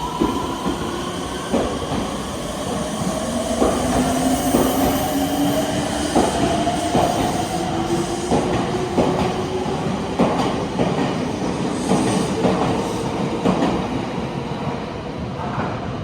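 Meitetsu electric train pulling away. The traction motors whine, their pitch slowly rising as it accelerates, and the wheels knock over rail joints at irregular intervals.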